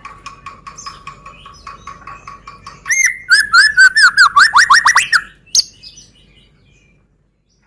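White-rumped shama (Medan murai batu) singing. A faint held whistle with fast ticking runs for about three seconds, then a loud run of rapid slurred whistles follows at about five a second, ending with one short sharp note.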